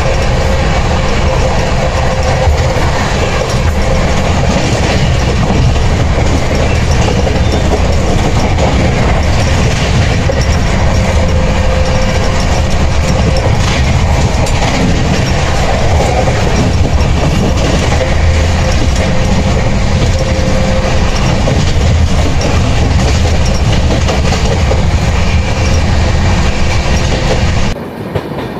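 CR Rajdhani Express coaches running along the track: a loud, steady rolling rumble of wheels on rails. The sound drops suddenly about a second before the end.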